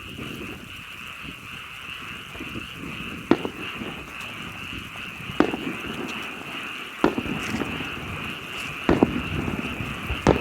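Fireworks shells bursting: five sharp booms about two seconds apart, the fourth doubled, over a steady high-pitched background chorus.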